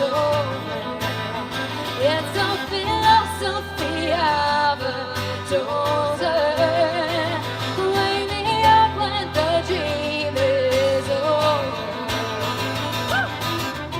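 Live indie-acoustic band music with no lyrics: strummed guitar and steady bass notes under a melody line with vibrato, from wordless vocals or a fiddle.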